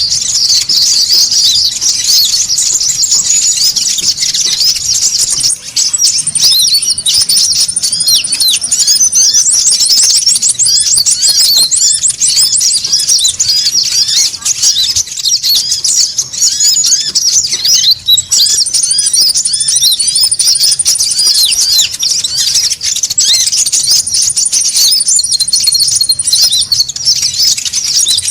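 Konin birds calling busily: a dense stream of high, rapid chirps, with a high, even trill held for a few seconds several times and a fast rattling trill about ten seconds in. It is a bird-trapping lure recording meant to draw in wild konin.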